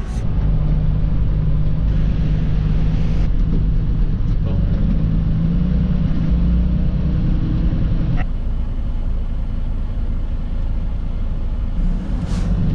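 Semi-truck diesel engine running under way with a deep rumble, its note rising in steps over several seconds, then dropping away about eight seconds in and climbing again near the end.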